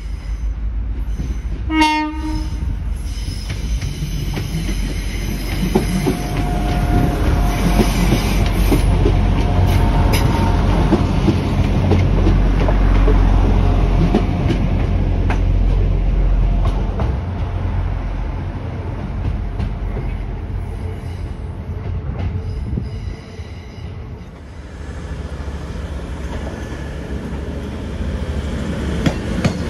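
A Transport for Wales diesel train sounds a short horn blast about two seconds in, then runs past with its engines working and its wheels clattering over the rails, at times squealing. Near the end an Avanti West Coast Class 221 Super Voyager diesel unit runs out from under a bridge.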